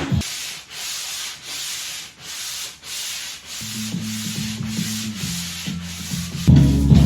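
Hand sanding of varnished wooden drawer panels with sandpaper, in even back-and-forth strokes of about two a second: a light scuff-sanding between coats of varnish. Music comes back in near the end.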